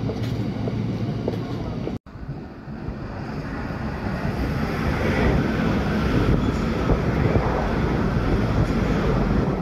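Electric passenger train running along the tracks. Its low rumble and rail noise build as it comes closer and passes close below. The sound cuts out for an instant about two seconds in.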